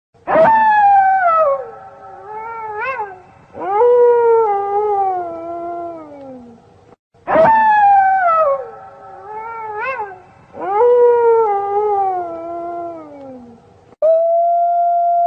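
Wolf howls: a call that starts high and slides down in pitch, a short wavering rise and fall, then a second long falling call. The same sequence repeats about seven seconds later, and a long, steady howl begins near the end.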